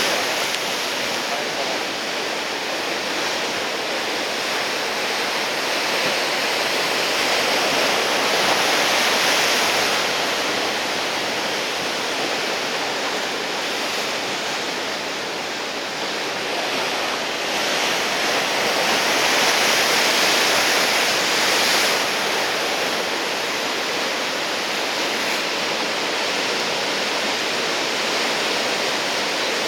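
Ocean surf from a big typhoon swell: waves breaking and washing in as a steady rush of water that swells louder twice, about a third of the way in and again past the middle.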